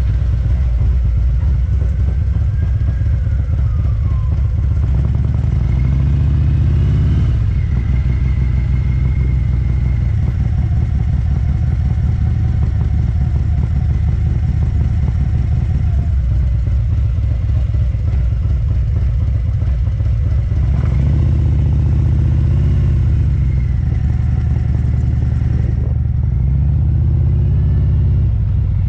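Harley-Davidson Street Glide CVO's V-twin running under way through Krome Werks Aggressor headers and slip-on mufflers: a loud, deep exhaust rumble with wind noise, its note changing a couple of times as the rider works the throttle or shifts.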